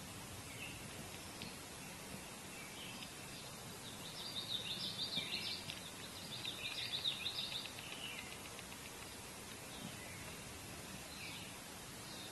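Small birds chirping and chattering in quick runs, loudest in the middle few seconds, over a steady outdoor hiss.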